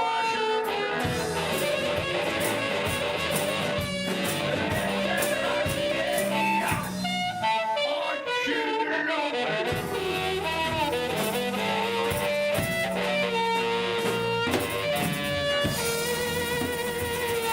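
A live band playing, with guitar under a bending lead melody line and a steady beat.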